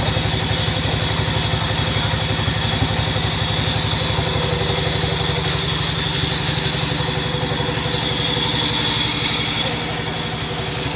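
Sawmill machinery running steadily, with a fast, even engine-like pulsing low down and a hiss above it.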